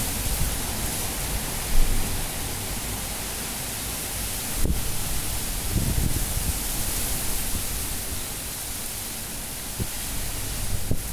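Cyclone-force wind blowing in gusts: a steady rushing hiss that swells and eases, loudest about halfway through. A couple of brief sharp knocks cut through it, about two and five seconds in.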